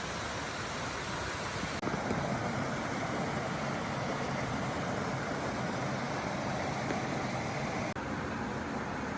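Stream water running in a steady rush, its sound changing abruptly twice as shots change.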